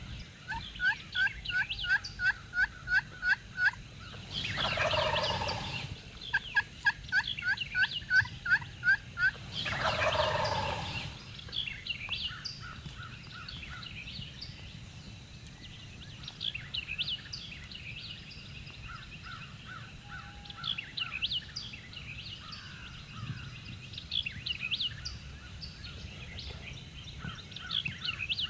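Wild turkeys: two runs of about ten evenly spaced hen yelps, each answered by a tom gobbling. Faint songbird chirps follow.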